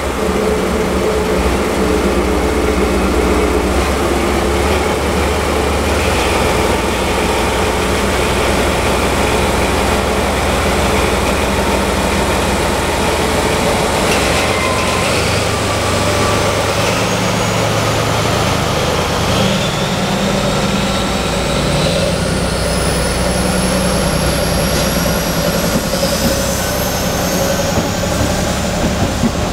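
A train's engine running steadily with a low rumble. Over the second half several whines rise steadily in pitch as the train gathers speed.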